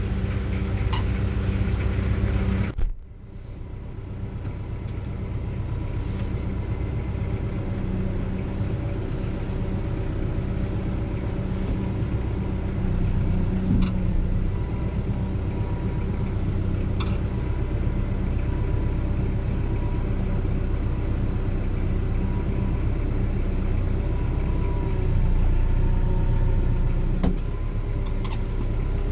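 Kubota L3940 tractor's diesel engine running steadily. About three seconds in, the sound drops sharply and then builds back over the next few seconds.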